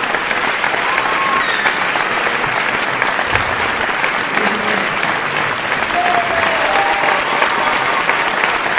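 Crowd applauding: dense, steady clapping of many hands that keeps an even level throughout.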